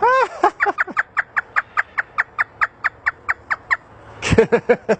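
African grey parrot imitating a hysterical laugh: one rising-and-falling whoop, then a fast run of about fifteen short, high 'ha' notes, roughly five a second, and a few lower laughing sounds near the end.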